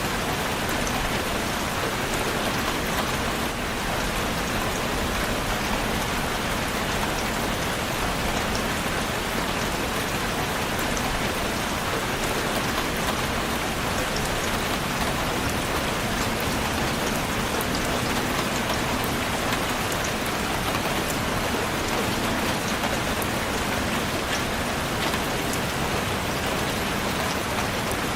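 Steady, heavy rain falling on a surface, an even hiss with scattered individual drops ticking through it.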